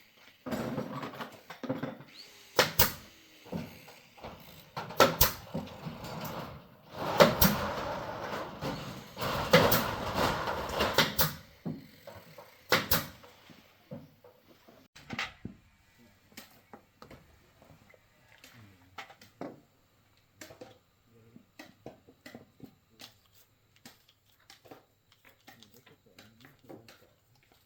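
Workshop handling of metal engine parts and tools: sharp clanks and knocks with stretches of scraping and rubbing for the first half, then scattered light taps and clicks.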